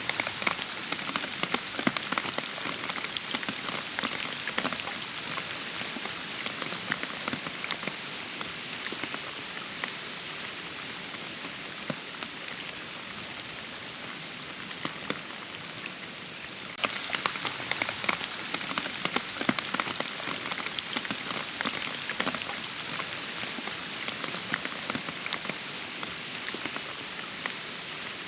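Steady rain falling, with many distinct close drops pattering on surfaces. About seventeen seconds in, it suddenly turns louder and denser.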